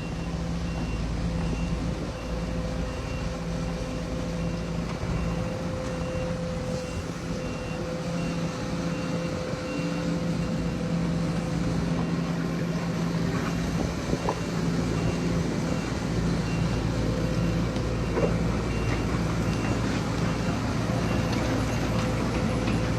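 Heavy diesel construction machinery running steadily, with a reversing alarm beeping in a regular series that stops for several seconds midway and then resumes.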